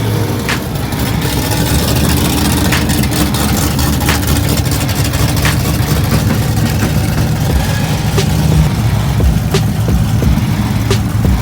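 A car engine running at idle, a loud, steady low rumble, with a few sharp clicks scattered through it.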